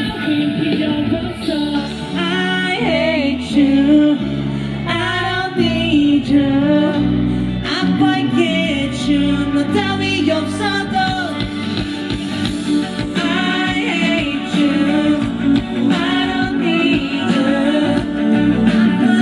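Live pop-rock band and a male lead singer performing a Korean song through a concert PA, heard loud from the crowd.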